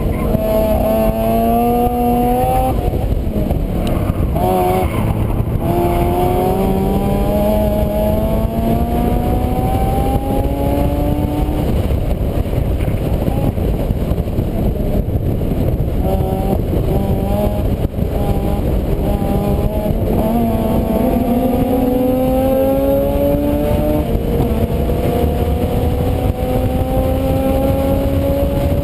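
A vehicle engine heard from an onboard camera over a heavy, steady rumble of wind and road noise. Its tone rises slowly in pitch and falls back several times, at about 3 s, 12 s and 24 s, as it accelerates through the gears.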